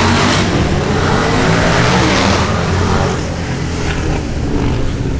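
A car engine running close by, louder for about the first three seconds and then easing off.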